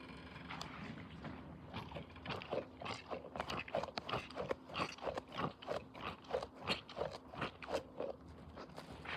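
A run of short crunching sounds repeating irregularly, about two to three a second, over a faint steady hum.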